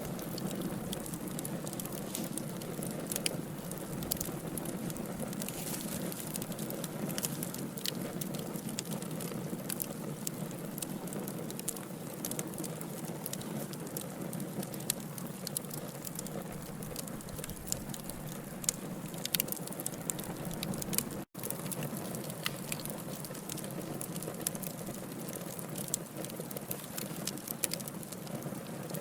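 Logs burning in a fireplace: a steady hiss of flames with frequent sharp wood crackles and pops. There is a split-second dropout about two-thirds of the way through.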